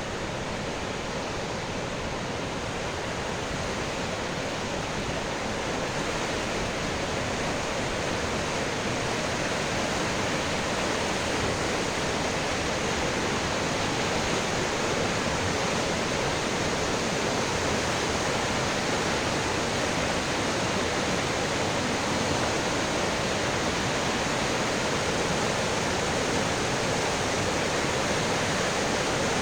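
River water rushing over a waterfall: a steady, even rush that grows a little louder over the first half.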